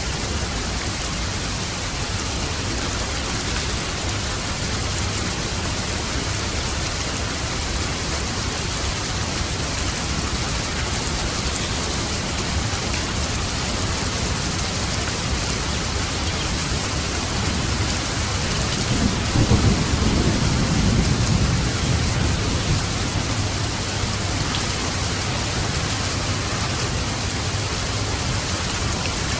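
Steady rain falling, a dense even hiss. About two-thirds of the way through, a low roll of thunder swells for a few seconds and fades back under the rain.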